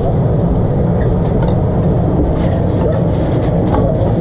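Steady low mechanical rumble, like a running motor or fan, with faint scattered clicks and clatters over it.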